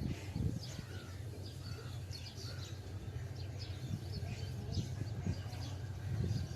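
Small birds chirping, many short quick calls scattered throughout, over a steady low rumble, with a few soft low thumps near the start and end.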